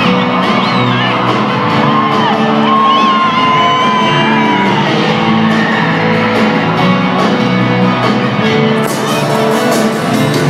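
Live sertanejo band music playing loud in a large concert hall, with audience shouts and whoops over it during the first half.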